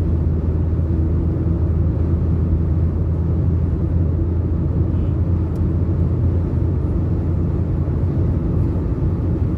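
Steady low rumble inside a moving vehicle's cabin: engine, road and wind noise while driving through a sandstorm's strong winds.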